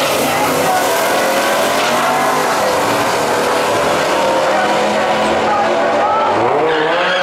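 Fox-body Ford Mustang accelerating hard off the drag-strip start line at full throttle, its engine note climbing in pitch as it pulls away down the track, together with a pickup truck racing in the other lane.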